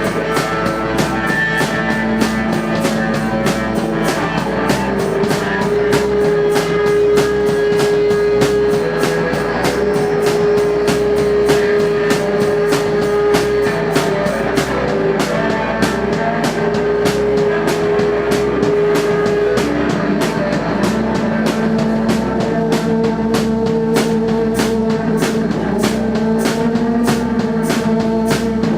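Live psychedelic rock band playing: a fast, steady drum beat under long, droning held notes that shift in pitch a couple of times.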